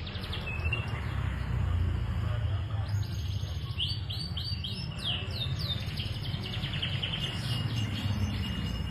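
Domestic canary singing: a run of repeated quick high notes about four seconds in, then rapid trills, over a low steady rumble.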